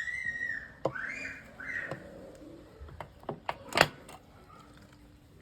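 A bird calls three or four times in short, chirping arcs during the first two seconds. A few sharp knocks follow, the loudest about four seconds in.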